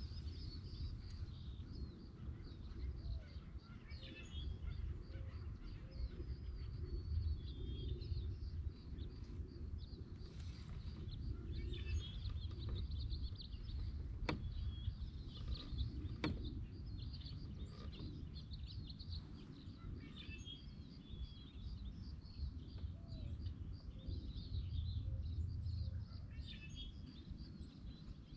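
Small birds chirping and calling on and off over a steady low rumble, with two sharp clicks about halfway through.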